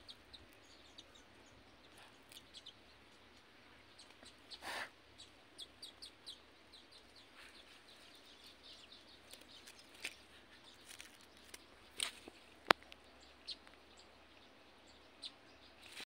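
Faint, scattered bird chirps over quiet outdoor background noise, with two sharp clicks about three-quarters of the way through.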